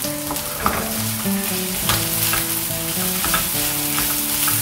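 Coarsely ground soaked dal and chopped onions sizzling in oil in a non-stick pan while being stirred and sautéed with a spatula, with a few short scrapes of the spatula against the pan.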